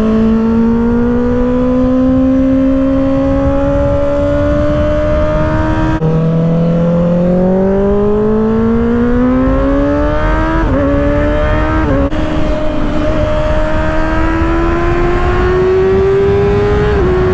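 2024 Kawasaki ZX-6R's 636 cc inline-four running through an aftermarket M4 exhaust under way, its pitch climbing steadily as the bike pulls. The pitch drops suddenly about six seconds in, then climbs again with two quick upshifts near the middle and rises slowly towards the end.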